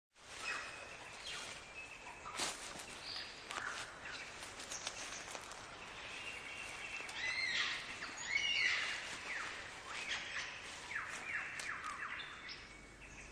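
Superb lyrebird singing: a varied run of whistles, chirps and clicks, with a string of quick downward-sweeping notes in the second half.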